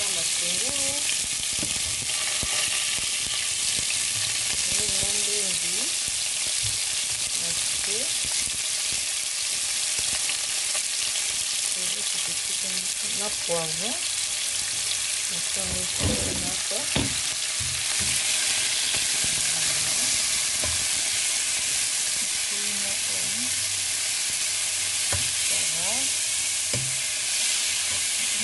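Chopped onion sizzling and frying in hot oil in a pan, a steady hiss, with two light knocks about halfway through.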